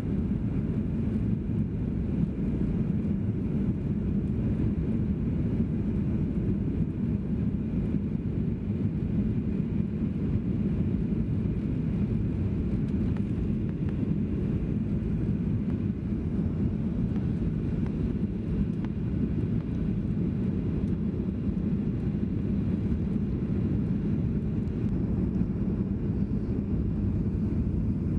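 Steady low rumble inside a Boeing 737-800 passenger cabin in flight: engine and airflow noise heard from a seat, unchanging throughout.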